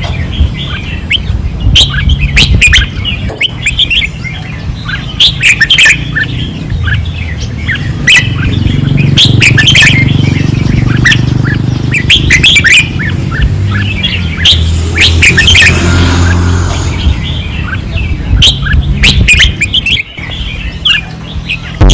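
Red-whiskered bulbuls singing hard, a dense run of quick, rising and falling chirping phrases, over a steady low rumble.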